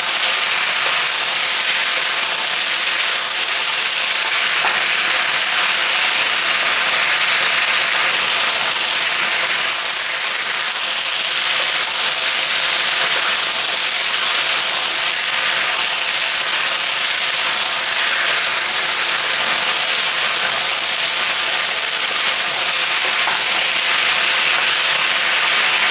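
Chicken and red onion sizzling in hot oil in a wok over high heat as they are stir-fried: a steady frying hiss.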